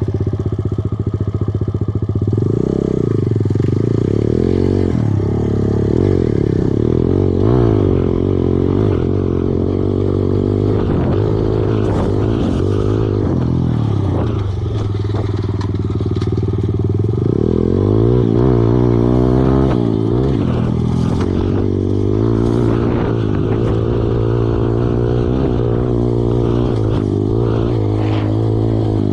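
Kawasaki KLX110 dirt bike's small four-stroke single-cylinder engine running on a trail ride, its revs rising and falling again and again, with scattered clattering knocks.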